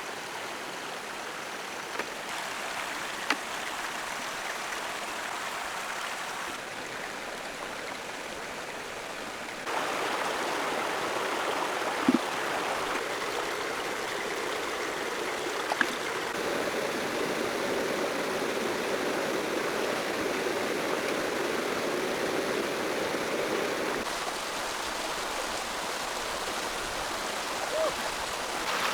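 Steady rushing of running water, with a few faint knocks; the sound shifts abruptly in level a few times.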